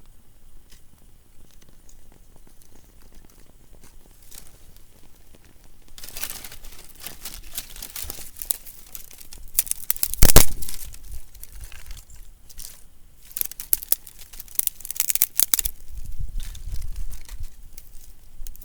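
Dry kindling crackling and snapping as a campfire is laid and catches from fatwood. Quiet at first, then a run of dense crackling and rustling with one loud crack about ten seconds in.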